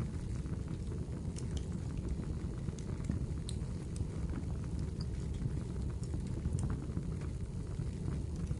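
Firewood burning in a fireplace: a steady low rumble of the flames with scattered sharp crackles and snaps.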